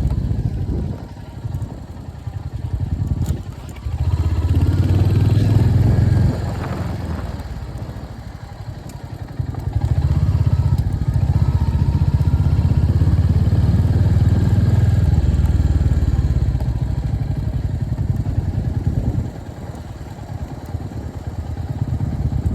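Royal Enfield Hunter 350's single-cylinder engine running while riding, pulling loudly under throttle and easing off several times.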